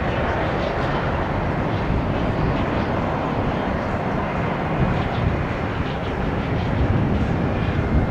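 United Boeing 737 MAX 9 jet airliner's engines at takeoff power as it departs, a steady roar, with uneven low wind rumble on the microphone.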